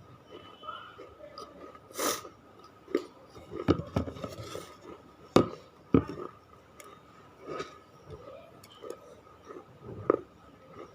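Close-miked crunchy chewing of hard baked clay: irregular crunches, with sharp snapping bites about two, five and a half and six seconds in.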